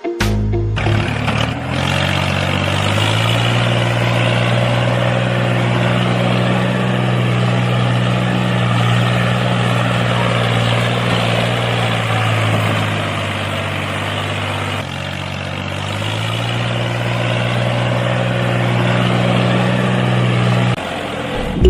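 A small engine or motor running steadily with a low hum, easing slightly in level about two thirds of the way through and cutting off just before the end.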